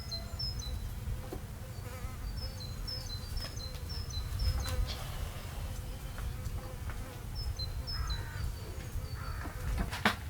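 Outdoor ambience: a small songbird sings phrases of short high chirps, over a steady buzzing hum like a flying insect and a low rumble. Two sharp knocks come near the end.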